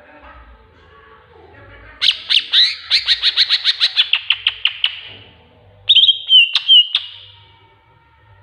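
Tengkek buto kingfisher calling: a rapid run of about fifteen sharp, high notes that slows and fades over some three seconds, then a short loud burst of notes about a second later.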